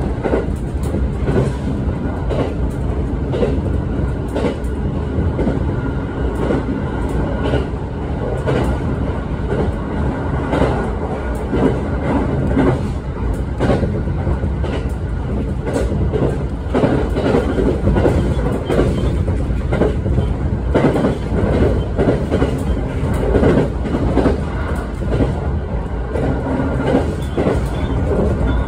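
Electric train running at speed, heard from inside the passenger car: a steady low rumble with the wheels clattering over rail joints.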